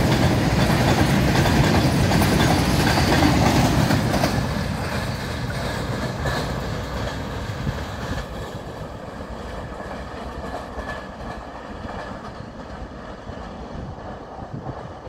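RoRo freight train's flat wagons rolling past on the rails. About four seconds in the last wagon has gone by, and the sound fades steadily as the train moves away.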